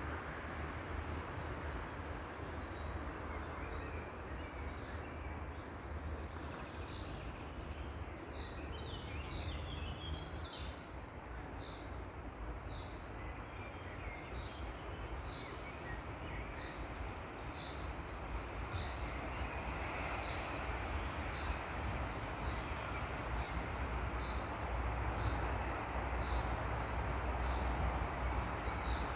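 A bird repeating a short high chirp about once a second over a steady outdoor background of low rumble and hiss.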